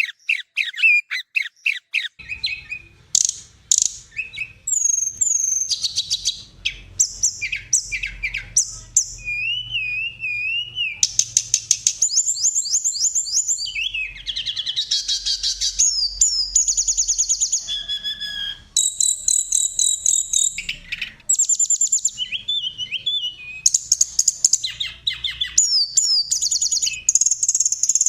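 Songbirds singing in a fast, unbroken run of varied phrases: rapid chirp series, trills and whistled glides, high-pitched and loud, layered as a bird-song training recording (masteran) for cage birds. A faint low hum lies under it from about two seconds in.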